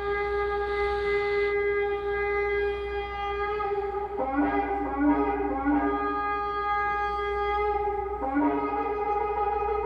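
Shofar (ram's horn) blasts: a long held horn note, broken about four seconds in by a run of short, quick blasts at a lower pitch. The note then holds again, with another short break near the end.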